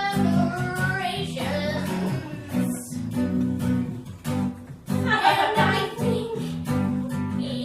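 Live band music: a voice singing over strummed guitar and a steady low accompaniment.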